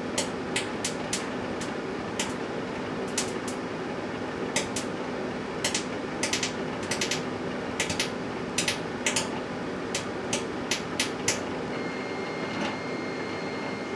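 Microwave oven running with an empty Pringles can inside, over a steady hum: the can's metal parts are arcing, giving irregular sharp snapping crackles, some in quick clusters, which stop about three seconds before the end.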